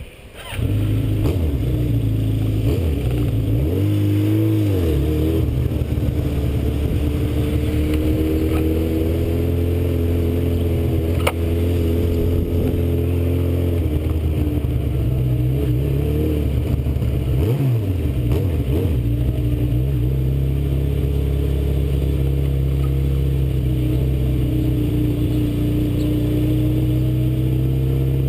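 Yamaha Seca II motorcycle's inline-four engine under way, starting abruptly about half a second in and changing pitch as it revs and shifts gears, with a dip and rise partway through. A single sharp click is heard near the middle.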